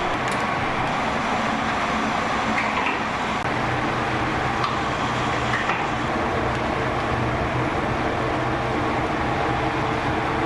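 Steady continuous rushing noise with a low hum underneath and a few faint clicks.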